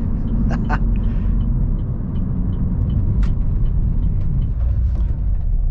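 Steady low rumble of a diesel car driving slowly, engine and road noise together.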